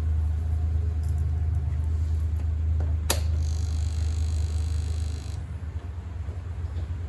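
Small engine running at a steady low drone. About three seconds in there is a sharp click, followed by a couple of seconds of high hiss.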